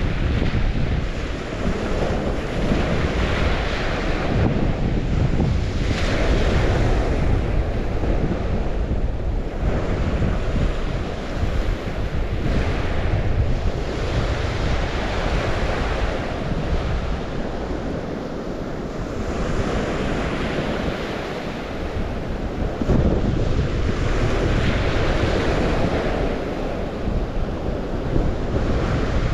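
Waves washing in on the St. Lawrence shore, surging and ebbing every few seconds, with wind buffeting the microphone in a low rumble.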